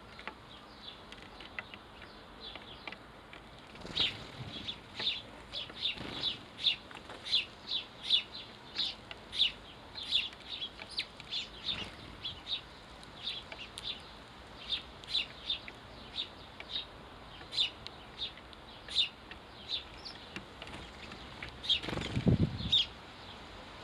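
Sparrows chirping over and over in short high notes, about two a second, with a short burst of wing flapping near the end.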